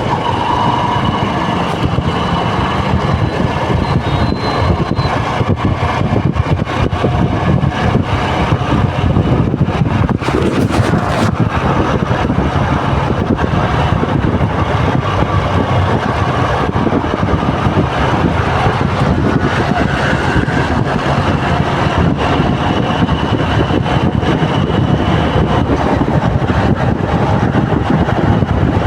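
Heavy road traffic in a jam: a loud, steady din of vehicle engines and road noise.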